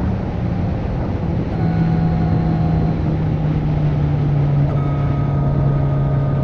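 Kawasaki Z900 (2020) inline-four engine running under way, exhaust decatted (catalytic converter removed). The engine note drops in pitch about a second and a half in, then holds steady.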